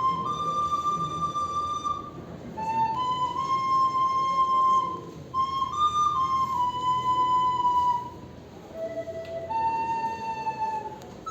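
A slow solo melody played on a flute-like wind instrument: long held notes that step up and down, dipping to a lower note near the end.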